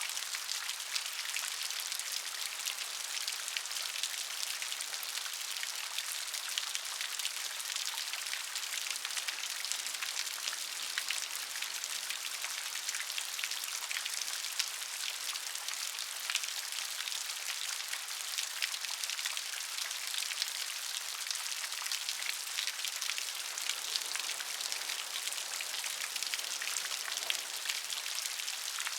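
Steady rain falling, a dense patter of many individual drops hitting a surface, bright and hissy with no thunder.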